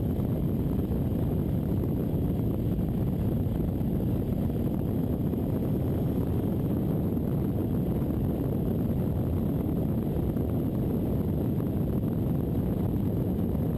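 Steady low wind rumble buffeting a camera microphone, as when filming from a moving motorcycle, with no clear engine note standing out.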